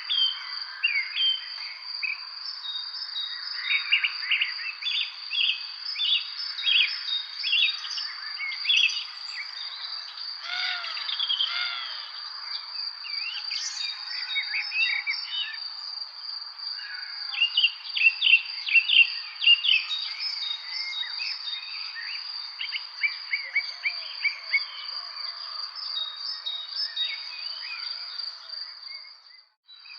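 Several songbirds chirping and calling in spring evening chorus over a continuous high-pitched insect trill. The sound drops away briefly just before the end.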